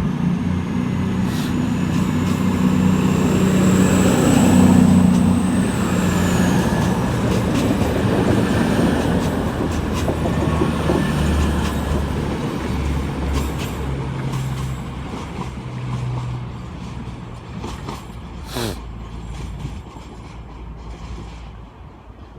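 Class 220 Voyager diesel multiple unit pulling away, its underfloor diesel engines running under power with a high whine that rises and then drops. The train grows loudest a few seconds in, then fades as it leaves. A single sharp clank sounds near the end.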